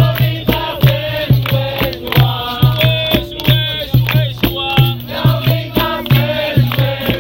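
Capoeira roda music: a group singing a chant over a steady rhythm of hand drum and berimbau twangs, with the shake of a rattle.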